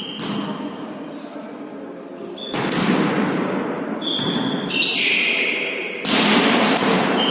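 A ball is hit and bounces on a hall floor during a volley tennis rally: several sharp strikes, each followed by echo, the loudest about two and a half and six seconds in. Short high squeaks come in among the hits.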